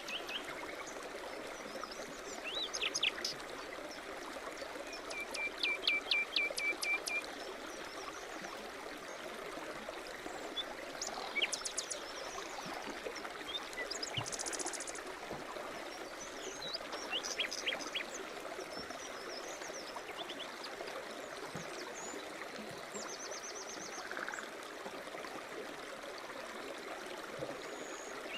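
A small stream babbling and trickling steadily, with several songbirds chirping and trilling over it, including short rapid trills about six seconds in and near the end.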